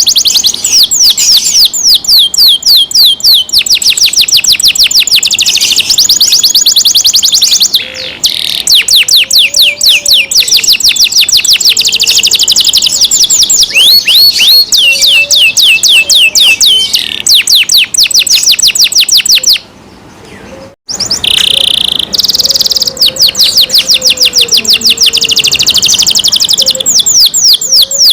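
Domestic canary singing loud, rapid high-pitched trills of quickly repeated sweeping notes, changing from one trill pattern to the next, with a brief break about twenty seconds in.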